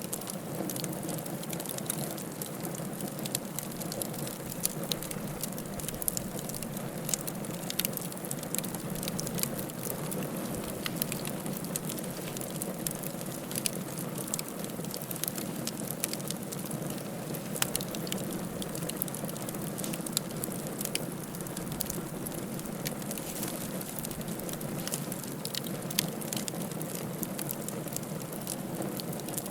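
Wood fire crackling in a fireplace: a steady low rush of burning with frequent small crackles and pops, and a few sharper snaps.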